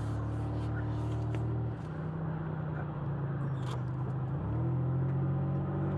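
Car engine and road noise heard from inside the moving car; the engine note drops off about two seconds in, as if easing off the throttle, and comes back stronger about four and a half seconds in.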